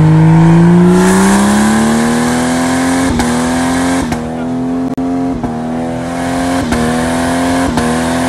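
1996 Jeep Cherokee Sport engine revved hard. Its pitch climbs over the first couple of seconds, then holds high and steady, with short dips about once a second.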